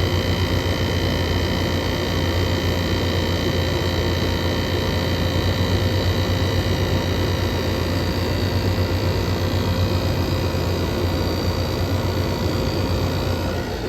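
Air conditioner running: a steady low hum with several constant high-pitched tones over it.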